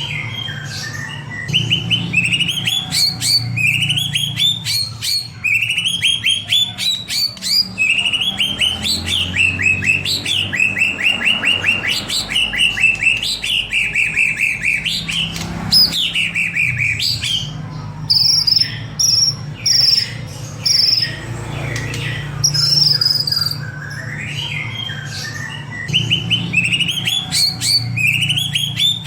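White-rumped shama (murai batu) in full song: phrases of fast rattling notes that sweep up into whistles, repeated over and over, with a run of higher, clear whistles about two-thirds of the way through. A steady low hum sits underneath.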